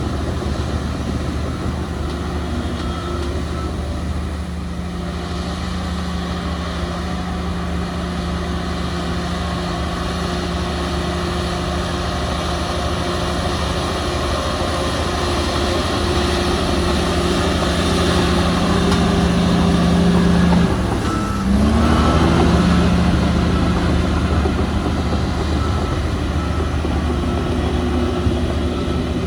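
Diesel engines of heavy earthmoving machinery running steadily under work, growing louder for a while. About two-thirds of the way in, the sound dips briefly with a quick drop and rise in engine pitch, then carries on.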